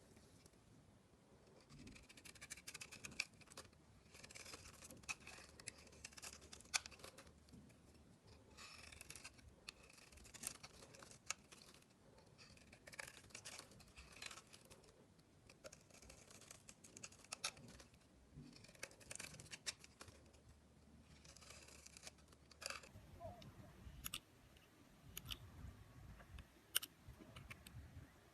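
A blade cutting through dry bar soap, in repeated strokes of crisp crackling and scraping. Near the end come fewer, sharper single clicks and snaps.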